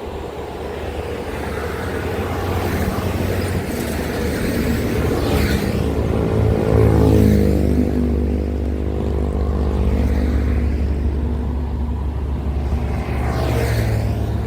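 Heavy diesel truck going by on a highway: a low engine drone with tyre noise builds to its loudest about seven seconds in, and the engine pitch drops as it passes.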